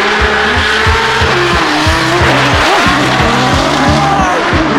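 Drift cars sliding, engines revving and tyres squealing, mixed with a hip-hop beat with heavy bass-drum hits.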